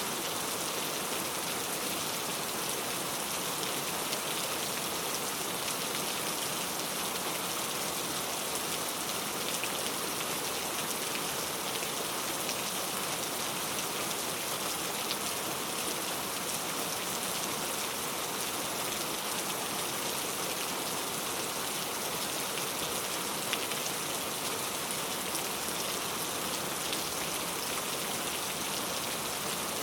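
Steady, even rain falling, with a dense hiss of drops and no thunder.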